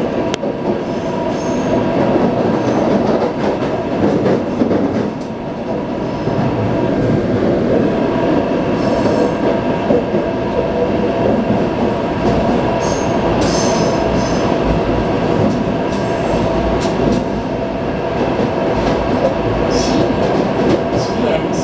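Taipei Metro C381 train running along the line: a continuous rumble of wheels on rails, with steady high tones from the running gear over it.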